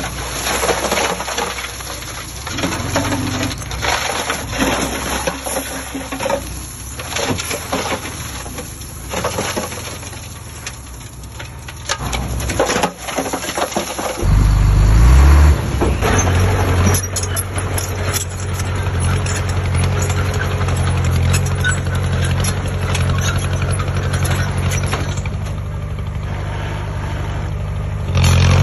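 Heavy construction machine's diesel engine, with irregular clattering and knocking through the first half. About halfway through, the engine comes up loud and then runs steadily under load, with a rattle.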